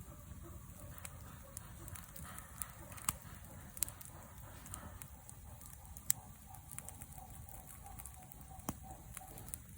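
Wood fire burning, with a low steady rush and sharp crackling pops at irregular intervals of a second or so.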